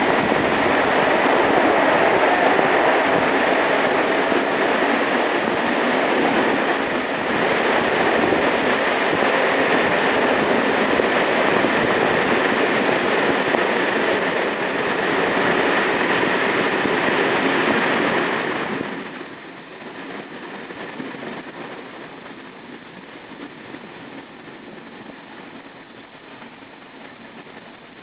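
Train running on the rails, heard from aboard as a loud steady rushing noise. About two-thirds of the way through it drops suddenly to a much quieter rumble.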